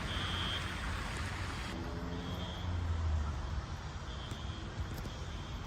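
An electronic beeper sounding short, high, single-pitched beeps, roughly every one to two seconds, over a steady low rumble.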